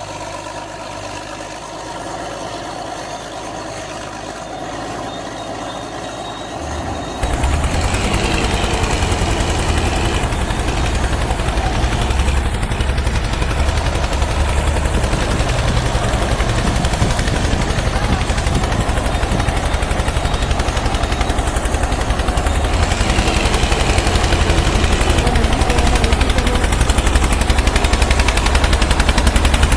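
Tractor engine running with a rapid chugging exhaust beat. It jumps up in loudness about seven seconds in and keeps going steadily.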